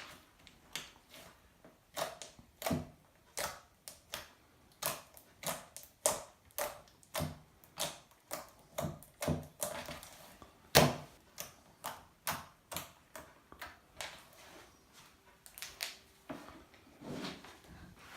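Homemade slime being spread out and worked, giving a string of sharp clicking pops as air pockets burst, roughly one or two a second, with the loudest pop about eleven seconds in.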